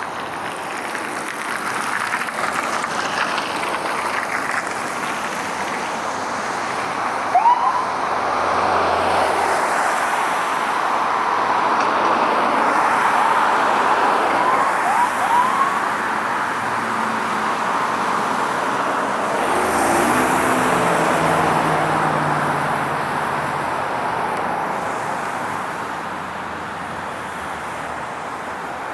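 Road traffic noise as an emergency vehicle responds, with short rising siren chirps about seven seconds in and again a couple of times around fifteen seconds. A low pitched tone comes in near twenty seconds.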